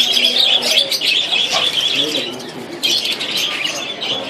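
Many caged birds chirping and chattering at once, a dense overlapping twitter that thins slightly near the end.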